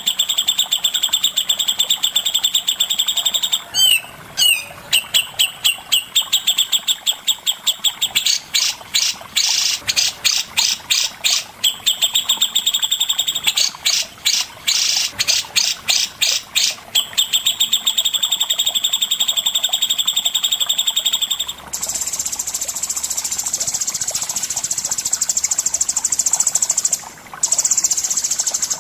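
A songbird singing a fast, continuous high trill, broken for a stretch in the middle into separate repeated chirps. About three-quarters of the way through, it changes to a higher, steady buzzing hiss like an insect.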